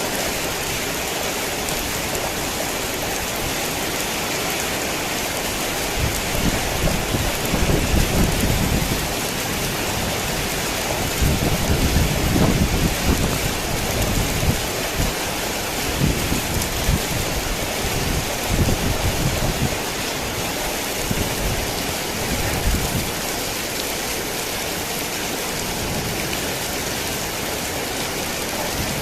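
Heavy rain falling steadily, with rolling thunder rumbling low from about six seconds in, swelling twice in the middle and dying away before the end.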